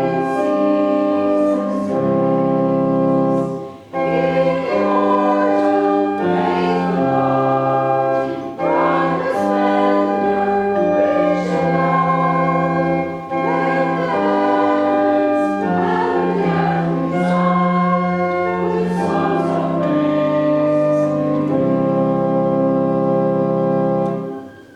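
Voices singing a hymn in church with organ accompaniment, the organ holding sustained chords beneath the singing. It ends on a long held final chord that cuts off near the end.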